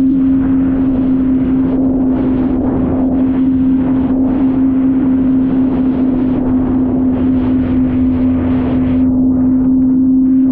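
Jet ski engine running at steady revs, a constant drone with rushing water and wind noise.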